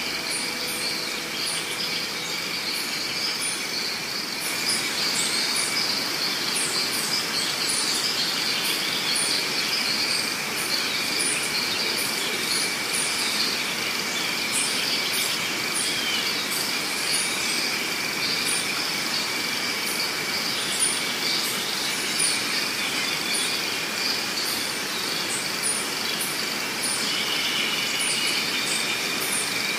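Steady insect chorus droning at two high pitches, with many short, very high chirps sprinkled over it.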